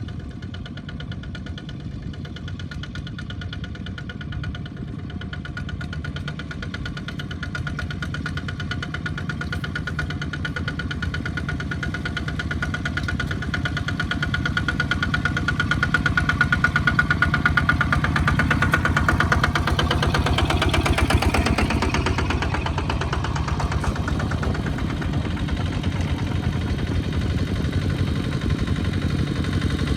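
Small farm tractor engine running steadily, growing louder as it draws closer and loudest a little past halfway.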